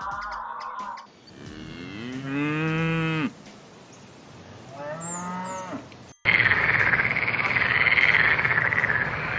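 A cow mooing: one long moo that rises and falls, then a shorter moo. About six seconds in it cuts abruptly to a louder, rough, noisy sound of another kind.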